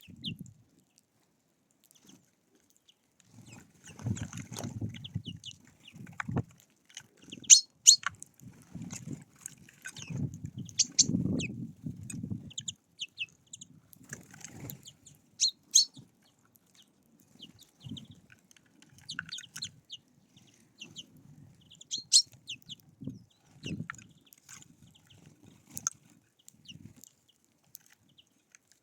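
Birds at a feeder: scattered short, high chirps of small songbirds, with sharp taps and pecks that are the loudest sounds, and bursts of low sound, heaviest about four to six and ten to twelve seconds in.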